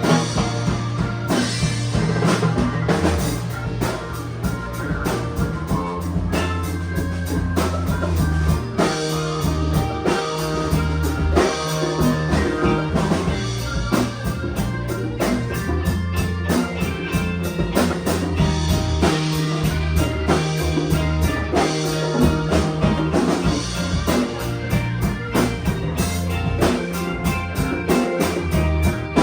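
A band playing an instrumental stretch of a rock song on drum kit and guitar, with a steady beat and a low bass line.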